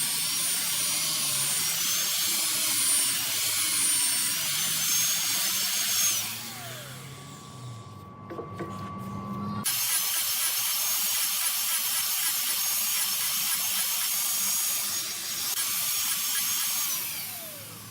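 Hand-held electric power tool working wood, run in two stretches: each time it is switched off, its motor winds down with a falling whine, about six seconds in and again near the end.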